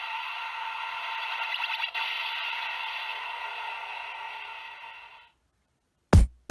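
Electronic sound effect from a DX Kamen Rider Build toy, played through its small speaker: a steady hiss that cuts off suddenly about five seconds in. Just before the end, loud drum-machine beats start.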